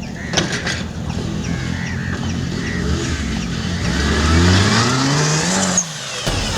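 Modified 4x4 off-road vehicle's engine running and then revving up, rising steadily in pitch for about two seconds before breaking off abruptly near the end; a couple of sharp clicks early on.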